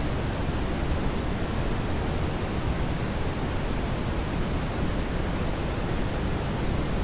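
Steady brown noise: an even, unchanging rush weighted toward the low end.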